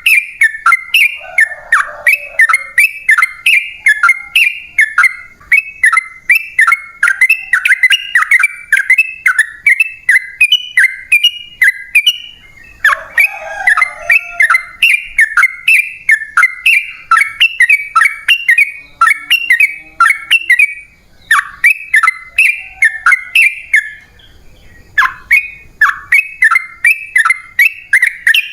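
Yellow-vented bulbul (trucukan) singing a long, fast song: a rapid run of short, bubbly chirps repeated without let-up. The song breaks off briefly twice, about twelve seconds in and again about twenty-four seconds in, then resumes.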